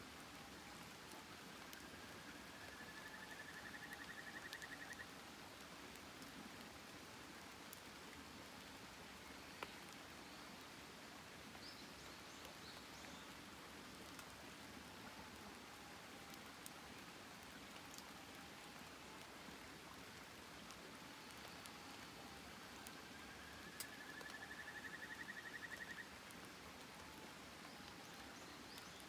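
Faint campfire burning: a steady hiss with a few sharp pops. Twice a rising, rapidly pulsed trill sounds, about a second in and again near the end.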